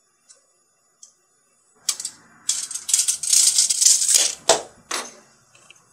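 Steel tape measure's blade retracting into its case with a fast rattle for about two and a half seconds, ending in two sharp clicks.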